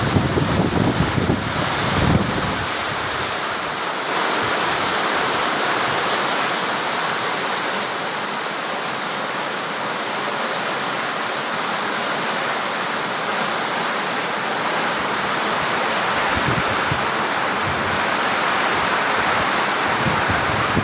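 Heavy rain pouring down in a steady hiss, with low buffets of wind on the microphone about a second in and again near the end.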